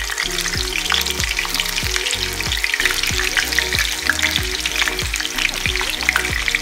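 Whole bitter gourds (karela) sizzling as they fry in hot mustard oil in a pan, more being laid into the oil one at a time. Background music with a steady beat plays underneath.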